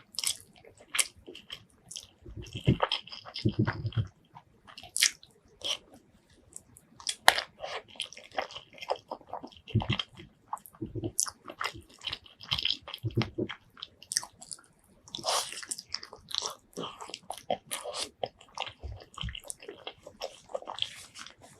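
Close-miked eating of pork leg curry with rice: wet chewing with many quick, sharp mouth clicks and smacks, and a few fuller, lower chews about three seconds in.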